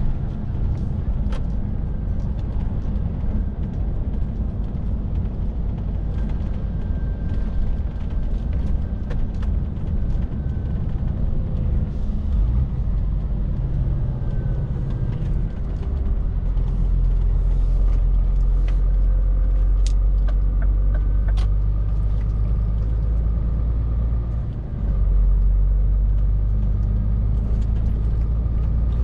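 Scania R450 lorry's 13-litre inline-six diesel running on the road: a steady low drone with road noise. The engine note shifts and gets louder about halfway through, then dips briefly near the end.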